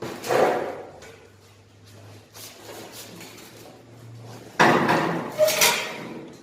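Knocks and metallic clatter from metal parts being handled: one burst at the start and a louder one a little over halfway through, with a brief ring.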